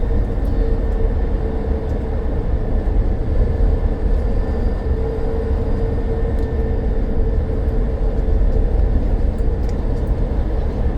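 Inside a BYD BD11 battery-electric double-decker bus on the move: a steady low rumble of tyres and road noise with a thin, steady whine running through it.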